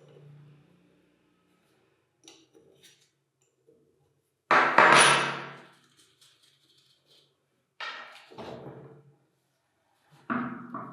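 Metal parts of a handheld external concrete vibrator being knocked apart during disassembly: three separate strikes, the loudest about four and a half seconds in and ringing briefly, with lighter clinks between.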